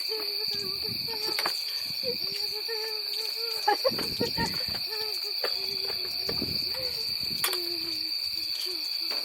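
Steady high insect trilling, with a person making long, wavering wordless "ooh" sounds and a few short clicks.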